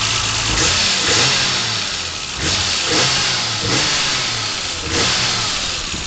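BMW M635CSi's twin-cam straight-six idling and blipped several times, each blip a quick rise and fall in revs.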